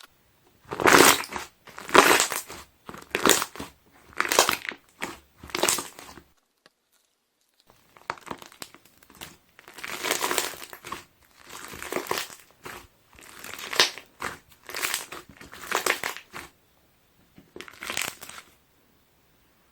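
Slime being pressed, squeezing out and popping trapped air bubbles, in a series of short presses about a second apart. There is a brief pause about six seconds in before the presses resume.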